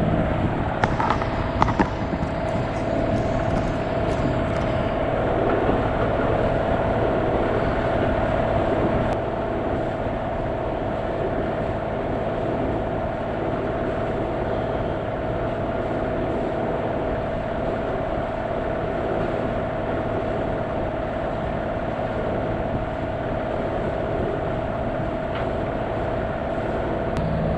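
Boat engine running steadily under way, a continuous drone with a steady tone over wind and water noise.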